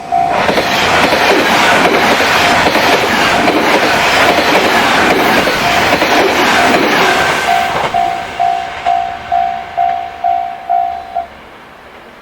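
A train passing close by: a loud rush and rattle of wheels for about eight seconds that then dies away. Through it a warning tone sounds, pulsing about twice a second near the end and stopping about a second before the end.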